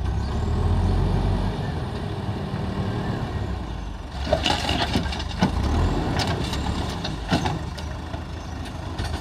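JCB backhoe loader's diesel engine running steadily, a little louder for the first second or so. From about four seconds in comes a run of sharp knocks and clanks, the loudest a few seconds apart.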